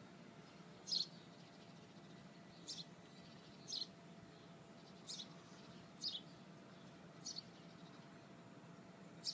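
A small bird chirping: short, high chirps about once a second, some in quick pairs, faint over a steady low background hum.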